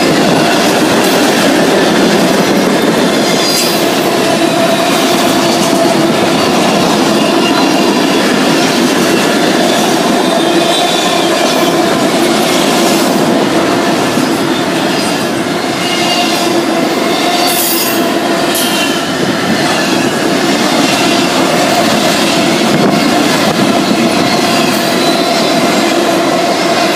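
Canadian National freight train's cars rolling past: a loud, steady rumble of steel wheels on rail, with high-pitched wheel squeal coming and going. The cars are tank cars and double-stack container well cars.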